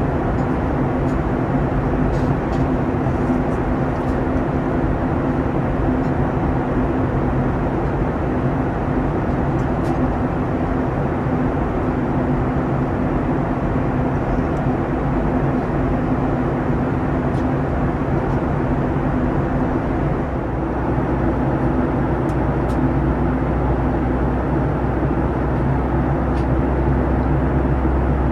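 Steady cabin noise of a Boeing 737-900ER in flight: a constant engine drone and rush of air with a low hum. About twenty seconds in, a deeper rumble comes in and holds.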